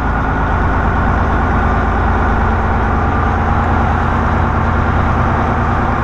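Semi-truck engine running with a steady, unchanging drone.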